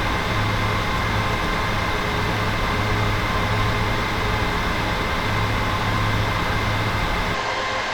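Cooling fans of a home server holding 21 disk drives, running steadily: an even whooshing rush with a steady hum and a thin whine through it. Shortly before the end the deepest hum and the highest hiss drop away.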